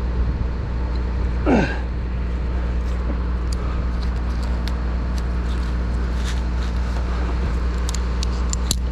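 Bucket truck's engine running steadily with a low hum. About one and a half seconds in, a brief sound slides down in pitch, and a few light clicks come near the end.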